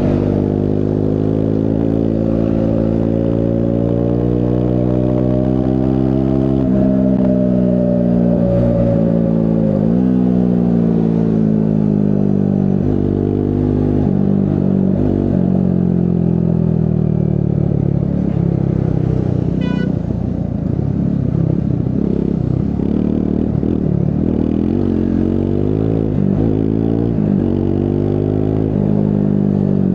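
Triumph Scrambler 400 X's single-cylinder engine under way. Its pitch climbs as the bike accelerates and drops sharply at each gear change or roll-off.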